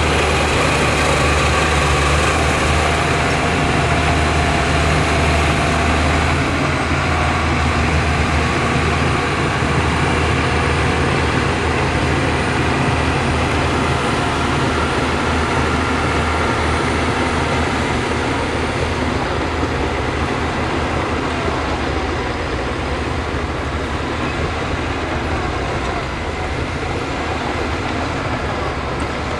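Heavy diesel engine of earthmoving machinery running steadily, a little louder for the first six seconds or so, then easing slightly.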